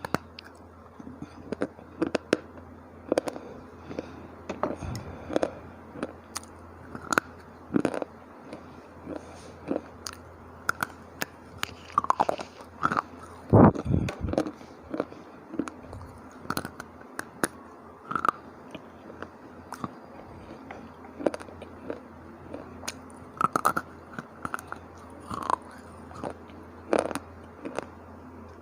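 Dry clay or slate 'bar chips' being bitten and chewed close to the microphone: a run of sharp, irregular crunches a second or so apart, with a louder cluster of crunches about halfway through.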